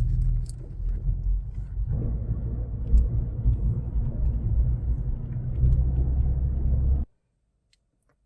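Porsche 996's flat-six engine running, a steady low rumble that grows fuller about two seconds in and cuts off abruptly about seven seconds in.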